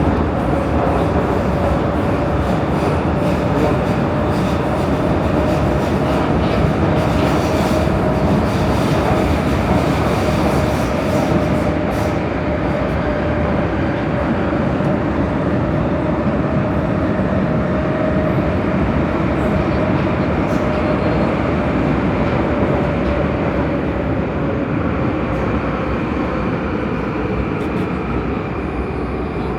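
Prague metro train running between stations, heard from inside the carriage: a loud, steady rumble of wheels and running gear with a steady whine that rises slightly and sinks a little near the end.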